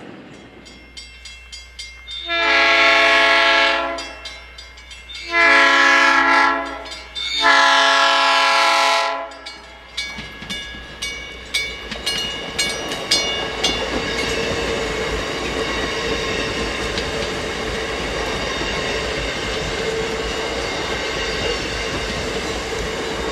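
South Shore Line electric multiple-unit commuter train sounding three long blasts on its chime horn as it approaches a grade crossing, with the crossing bell ringing behind. From about ten seconds in, the cars pass with a steady rumble of wheels on rail, clicking over the joints, and a held electric hum.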